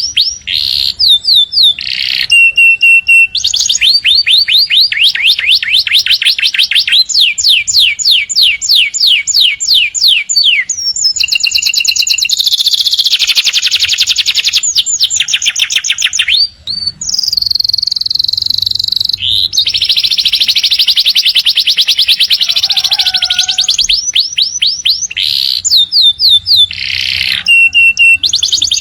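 Domestic canary singing a long, unbroken song: fast trills of rapidly repeated notes that change pitch from one run to the next, broken by a few held whistled notes.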